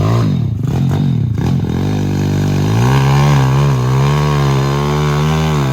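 Pit bike's single-cylinder four-stroke engine pulling hard in first gear up a steep dirt climb. The revs rise and fall with the throttle for the first two seconds, then hold high and fairly steady, and drop near the end.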